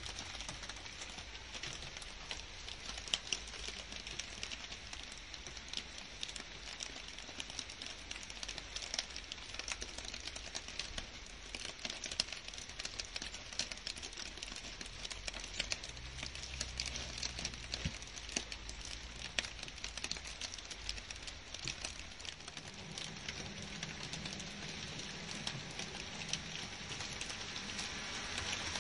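Steady rain falling on leaves and grass, a dense patter of countless individual drops over an even hiss, swelling slightly near the end.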